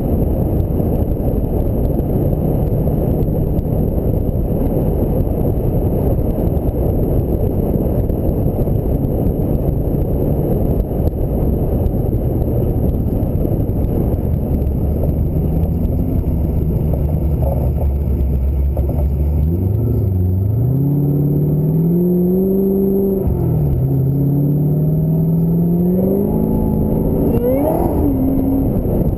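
Ford Mustang SVT Cobra V8 on the road: heavy wind and road rumble at a steady speed. About two-thirds of the way in, the engine revs up through the gears, its pitch climbing, dropping at a shift twice and climbing again.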